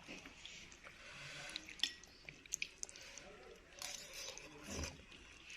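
Close-up mouth sounds of eating bakso: wet chewing and slurping with scattered small clicks, and a louder wet slurp about four seconds in.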